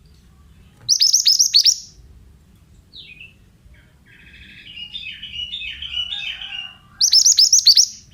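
A mantenan (pied bushchat) singing: two loud bursts of quick, sharp, high chip notes, one about a second in and one near the end, with a softer rambling warble between them.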